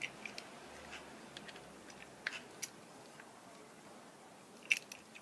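Faint scattered clicks and ticks of an Allen key seating in and turning a compound bow's limb bolts to back off the limb pressure. The clicks are louder and closer together near the end.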